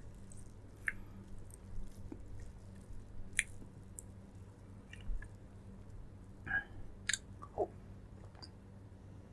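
Close-miked chewing and mouth sounds of a person eating, with scattered wet smacks and small clicks, over a steady low hum.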